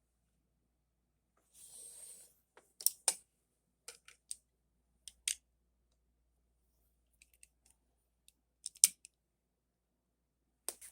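Scattered light clicks and taps from die-cast toy cars being handled and set down, with a short rustle about two seconds in and the sharpest click a little before the end.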